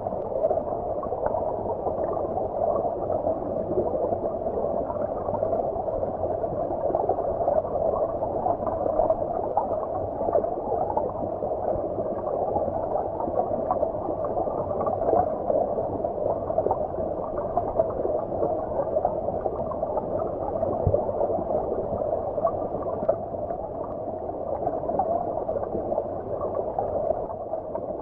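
Flowing stream water heard as if from beneath the surface: a steady, muffled rush, dull and low with no bright hiss or distinct splashes.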